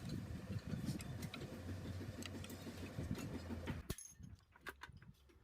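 A motor running with a steady low hum and rattling clicks, cutting off abruptly about four seconds in.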